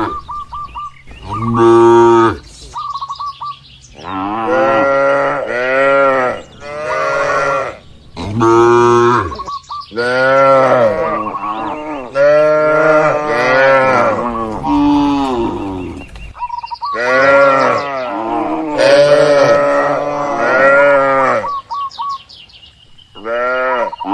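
Cattle mooing again and again, a dozen or so long calls about a second each, some overlapping as if from more than one cow, with short pauses between them.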